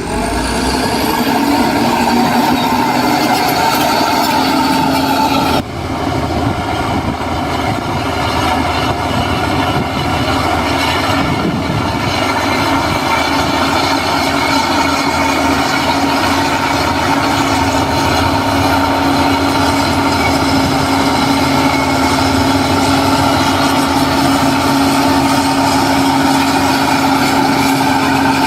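Diesel engine of heavy earthmoving machinery running steadily, with a steady whine held over the engine note. The sound drops briefly about five and a half seconds in.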